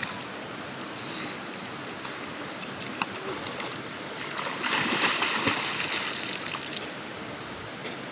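River water rushing steadily, growing louder and hissier for about two seconds in the middle, with a single click a little earlier.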